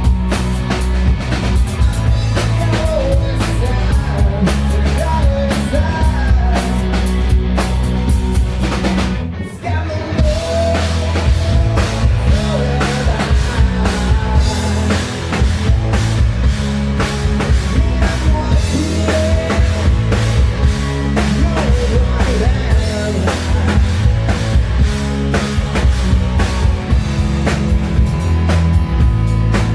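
Hard rock band playing live and loud, with a pounding drum kit and bass under a wavering melodic lead line. The music drops out briefly about nine seconds in, then picks straight back up.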